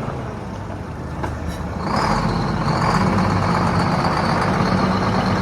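Scania 8x4 tipper truck's diesel engine running, getting louder about two seconds in, with a steady high-pitched whine over the engine.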